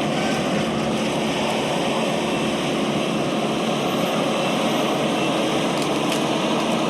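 Heavy machinery engine running steadily at a constant level, a continuous mechanical drone with a few faint steady tones.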